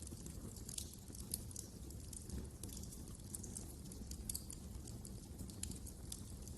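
Wood fire crackling in a fireplace: irregular sharp snaps and pops over a low steady rumble of the burning fire.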